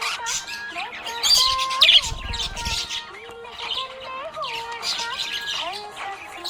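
Budgerigars chirping and warbling: a dense run of short chirps and gliding whistles, loudest about a second in.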